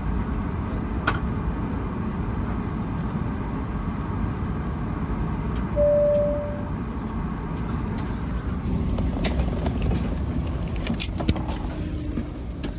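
Steady low cabin rumble aboard an Airbus A220-300 airliner. About six seconds in a single short chime sounds, and from about nine seconds on comes a cluster of clicks and knocks.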